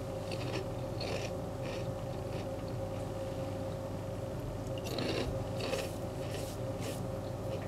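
A person chewing a Quaver, a light curly puffed potato crisp: a scattered run of short, crisp crunches, over a steady faint hum.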